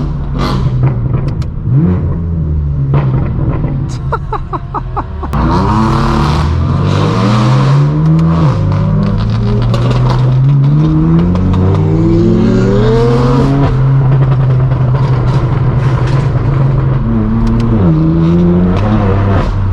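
Straight-piped BMW M4 F82 with a non-resonated AWE track exhaust, its twin-turbo inline-six pulling hard: the engine pitch climbs, drops at each upshift and climbs again, then settles into a steady cruise. Near the end there is a brief rise and fall in pitch.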